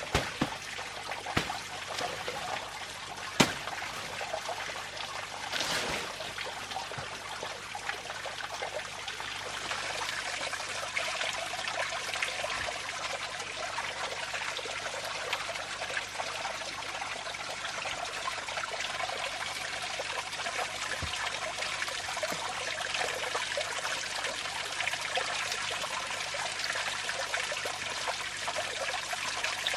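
Water trickling steadily, a little louder from about ten seconds in, with a few sharp knocks in the first few seconds.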